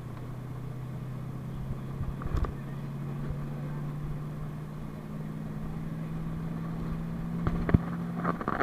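PAZ-32054 bus running under way: a steady engine drone that climbs in pitch over the second half as it speeds up, then breaks off near the end, with a couple of sharp knocks and rattles.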